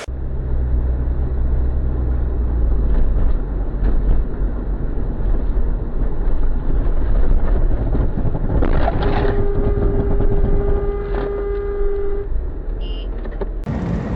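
Steady low rumble of vehicle and road noise, with a horn held for about three seconds a little past the middle.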